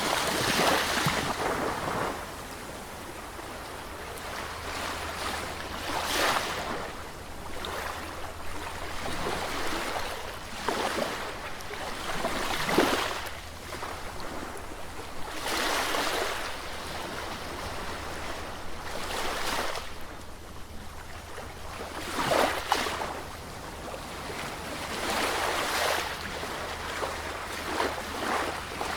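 Sea waves breaking on a shore, a surge of surf swelling and washing back every three to four seconds.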